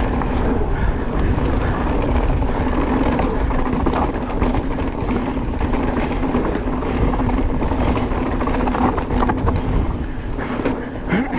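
Wind buffeting the microphone and tyres rumbling over a dirt trail as a mountain bike descends, with a steady low hum and a few brief knocks from the bike over rough ground.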